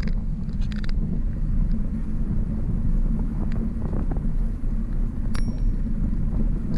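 Wind buffeting the microphone of a moving bicycle, a steady low rumble with road noise underneath. There is a brief high metallic ting about five seconds in.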